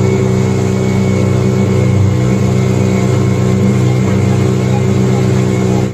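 Motorboat engine running steadily at a constant speed, with an even hum.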